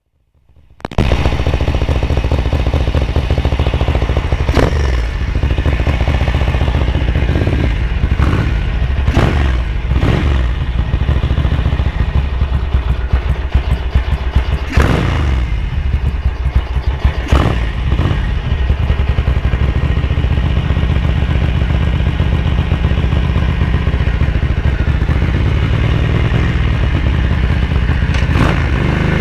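1978 Ducati 900 GTS's air-cooled V-twin engine starting about a second in and then running steadily, with several brief sharp noises over it in the first eighteen seconds.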